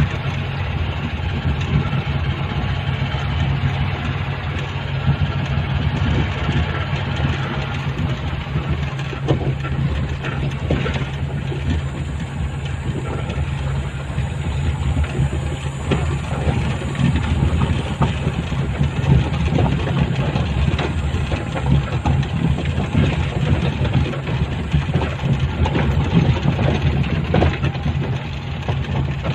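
A vehicle's engine running steadily with a constant low hum, heard from on board, with irregular knocks and rattles throughout.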